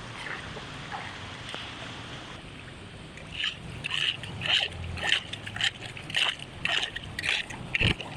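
Floodwater splashing in a regular rhythm of about two strokes a second, starting about three seconds in, over a steady rush of water.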